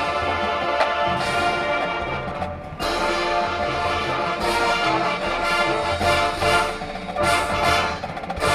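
High school marching band playing, with brass sustaining full chords over low percussion. The sound drops briefly just before three seconds in and then comes back.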